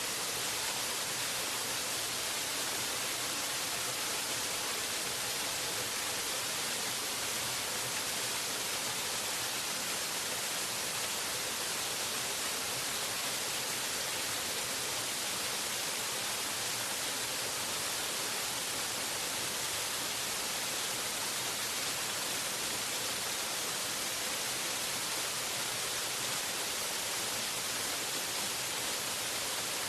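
Waterfall: a steady, even rush of falling water, mostly hiss, with no changes or separate splashes.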